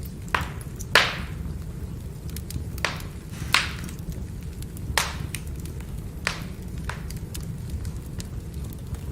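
Firewood burning, crackling with sharp pops several times over a steady low rumble of the fire; the loudest pop comes about a second in.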